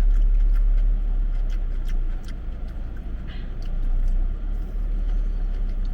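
A steady low rumble throughout, with scattered light clicks and crunches of people eating and handling food.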